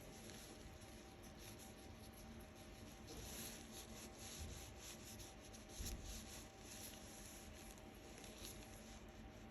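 Faint, soft rubbing and scratching at an ear close to the microphone, with many small scratchy strokes.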